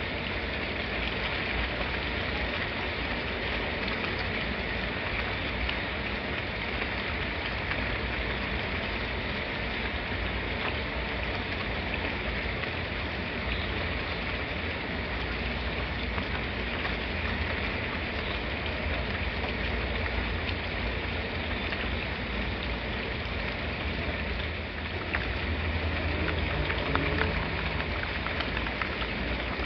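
Steady rain falling: an even hiss with a low rumble underneath. About 25 seconds in it grows a little louder, with a few sharp drop ticks.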